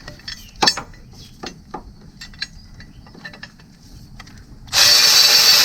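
A few light clicks and taps of a socket being set on a bolt, then, near the end, a Milwaukee cordless power tool starts running loudly and steadily, spinning out a bracket bolt.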